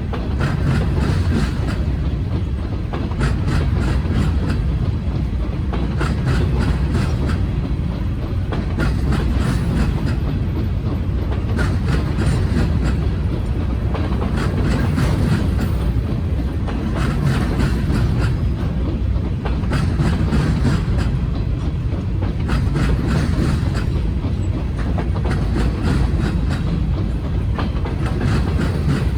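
Freight train of grain hopper cars rolling past at steady speed, a deep rumble with the wheels clicking and clacking over the rail joints.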